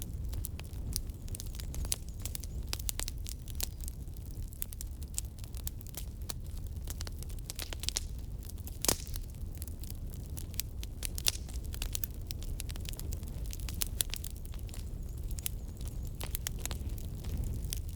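Burning firewood crackling, with many small irregular pops over a steady low rumble from the fire and one louder pop about halfway through.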